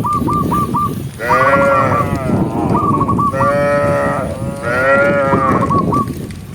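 Cows mooing: three drawn-out calls of about a second each, one after another, with a rapid high chirping trill repeating between them.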